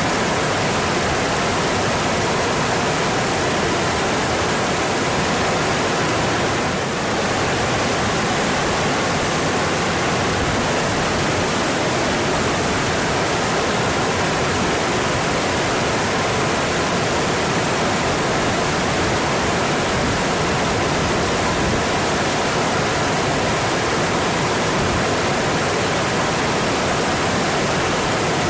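Mountain stream water flowing steadily, a dense, even wash of noise with no pauses, easing off slightly for a moment about seven seconds in.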